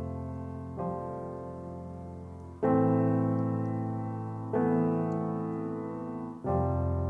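Slow piano music: sustained chords struck about every two seconds, each one fading away before the next.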